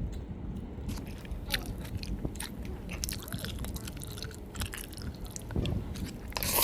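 Close-up biting and chewing of crispy fried fast food, with scattered crunches and one louder crunchy noise near the end.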